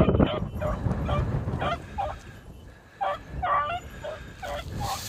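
Hunting hounds baying on a trail in short repeated yelps, roughly two a second, with a brief lull about halfway through: the pack running game by scent.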